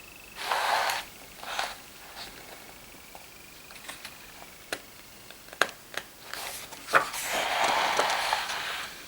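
Paper rustling as glossy catalogue pages are handled and turned: two short rustles, a few sharp taps and clicks, then a longer rustle near the end.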